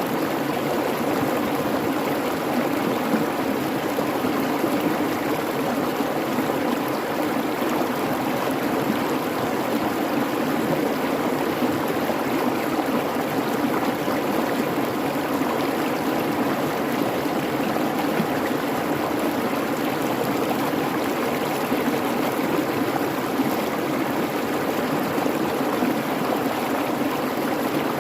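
Babbling creek flowing steadily: an even, unbroken rush of water.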